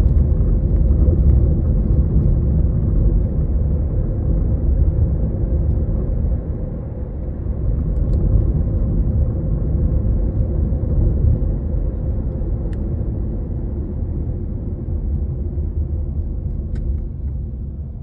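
Inside the cabin of a Toyota Estima ACR55W on the move: steady low road and engine rumble, with a few faint ticks. The knocking rattle from the steering column is absent, its cause, the damper gear inside the column, having been fixed.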